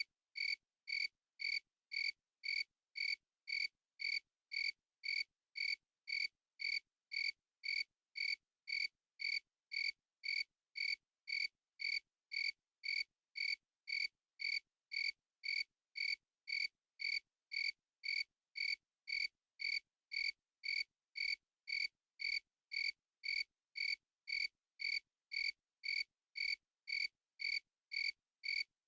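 A cricket chirping in a steady, even rhythm, a little under two chirps a second, with complete silence between chirps.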